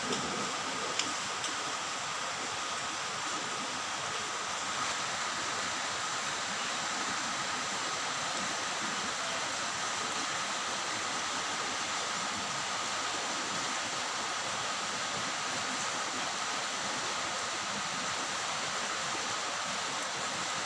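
Steady rain falling, with a faint steady high tone running through it and a couple of light ticks in the first second.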